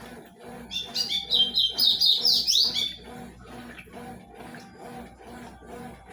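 A bird chirping rapidly in quick rising and falling notes for about two seconds, loudest about a second in. Under it runs the steady, rhythmic churning of a Consul 12 kg washing machine washing a load of sheets.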